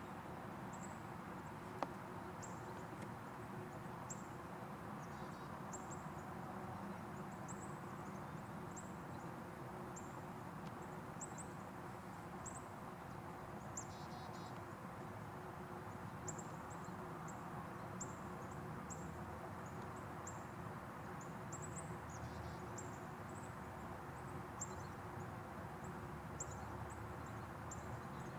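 High, thin, down-slurred call notes from small birds, repeated irregularly about once a second over a steady low background rumble.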